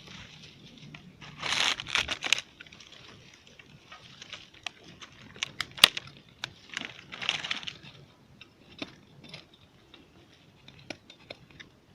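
Rustling and crackling of dry vegetation being pushed through or pulled at, with two longer bursts of scraping rustle and many short sharp snaps like twigs breaking.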